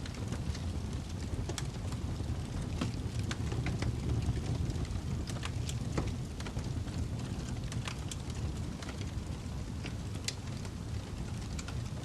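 Fireplace burning: a steady low rumble of flames with irregular sharp crackles and pops of burning wood.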